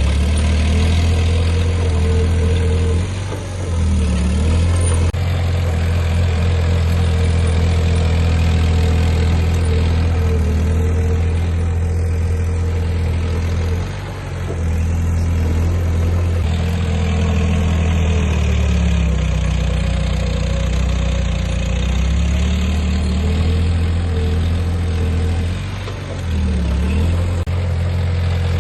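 Heavy diesel engine of earthmoving machinery, a bulldozer or dump truck, running steadily. The engine note dips briefly three times.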